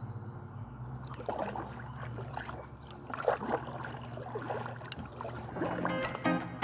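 Kayak paddle dipping and water trickling and splashing in short irregular bursts. Music fades in near the end.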